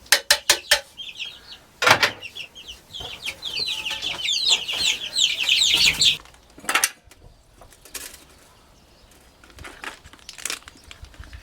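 Chickens calling: a quick run of short, high, falling chirps lasting about five seconds, then stopping. Several sharp knocks come before and after it.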